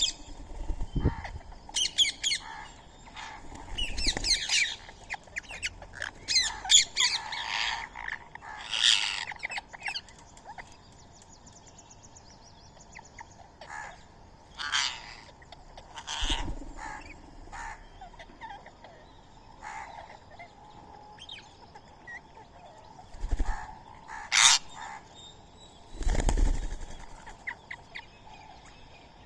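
Birds chirping and calling in quick, sharp bursts, thickest in the first ten seconds and then scattered, with one loud call near the end. Between the calls come several soft low thuds of wings flapping.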